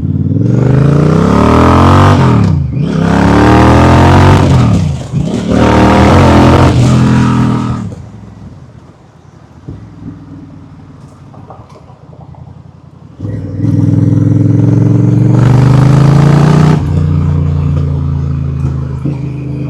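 Honda Rebel motorcycle engine pulling away and accelerating hard through three gears, each rise in pitch broken by a brief dip at the shift, then easing off for several seconds. About halfway through it comes back on the throttle and holds a steady cruising note, with wind noise on the microphone.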